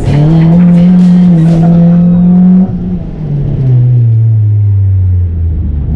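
Honda EK Civic's engine heard from inside the cabin: after a quick break at the start it holds high revs for about two and a half seconds, then the throttle is shut suddenly and the revs fall away steadily as the car slows at the end of the sprint run.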